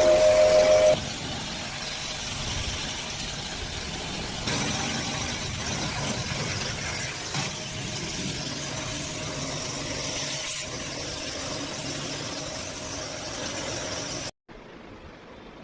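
A machine running steadily with a hiss. A loud steady tone stops about a second in, and the sound cuts off abruptly near the end.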